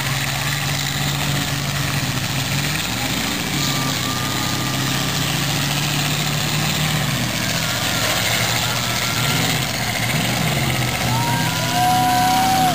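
Demolition derby cars' engines running and revving steadily in the arena, the engine note shifting now and then. A higher wavering tone sounds near the end.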